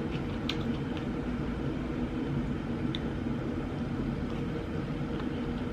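Steady low hum of room noise, with a few faint clicks from eating at the table.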